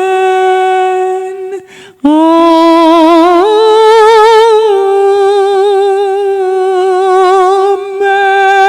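A woman's voice singing a slow, drawn-out 'Amen' unaccompanied, each note held long with vibrato. A short breath break comes about two seconds in. Then the pitch steps up slightly and settles back down.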